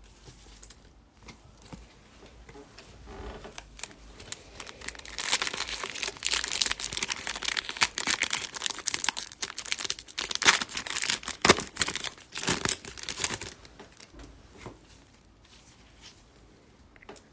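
Crinkly wrapper of a baseball trading card pack being torn open and crumpled, loudest for about eight seconds in the middle, with lighter rustling and handling before and after.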